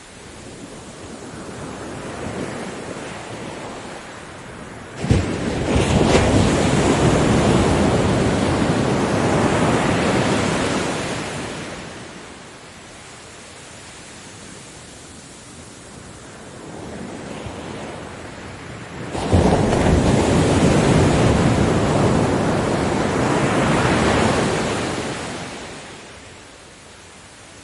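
Ocean waves breaking on a beach: two waves crash, one about five seconds in and one about nineteen seconds in, each starting suddenly and then washing up and fading over several seconds, with a low hiss of surf between them.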